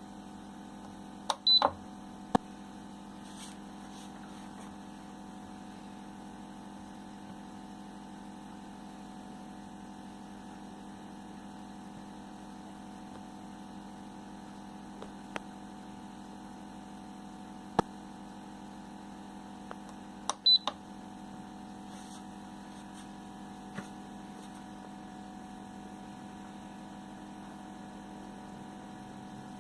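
Twin-head mug heat press with a steady electrical hum. Its digital controller beeps briefly about a second and a half in and again about twenty seconds in, with a few sharp clicks in between.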